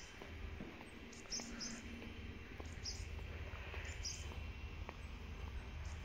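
Small birds chirping: short, high chirps about once a second, over a low rumble.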